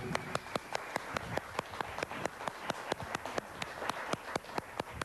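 Hand clapping, a few people applauding with sharp, fairly even claps about four or five a second.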